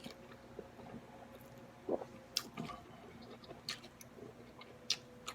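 Soft mouth sounds of a person chewing a mouthful of pho: a few scattered wet smacks and small clicks, over a faint steady hum.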